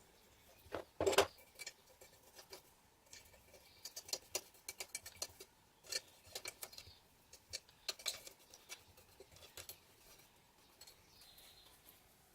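A clatter about a second in, then irregular light clicks and taps of small metal parts being handled, such as padlock pieces or small tools.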